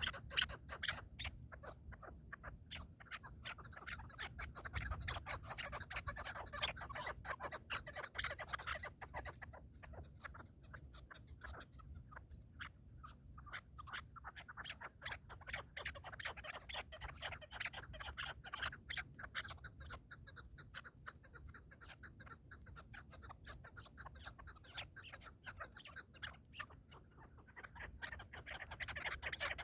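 Partridges calling, a dense run of short rapid notes that thins out in the middle and picks up again near the end.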